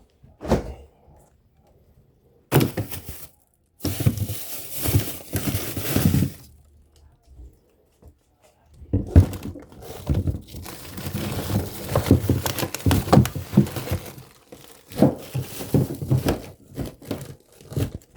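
Irregular rustling, crinkling and dull thunks, as of clothing or a bag being handled close to the microphone, in spells with a quiet gap in the middle.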